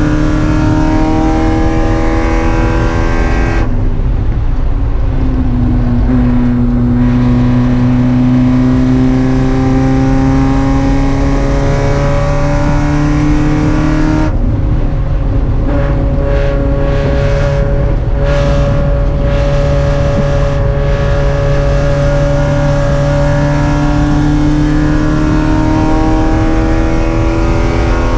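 Spec Miata race car's inline-four engine running hard and loud. Its pitch climbs under throttle and drops sharply as the throttle closes, once about four seconds in and again about fourteen seconds in, then climbs again.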